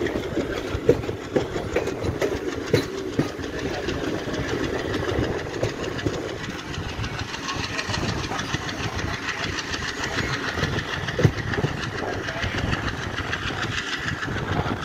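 Passenger train running along the line, heard from a coach: a steady rumble of steel wheels on the rails, broken by a few sharp clacks as the wheels cross rail joints.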